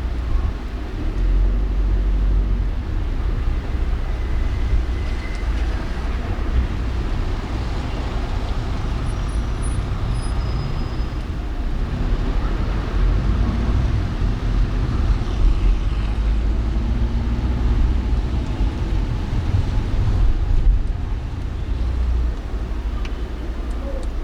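Car driving through city traffic: a steady low rumble of engine and road noise with the general hum of surrounding traffic.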